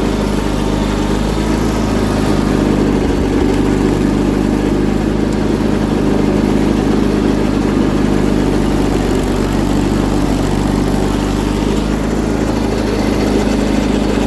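John Deere 317 garden tractor's twin-cylinder Kohler engine running steadily with an even drone.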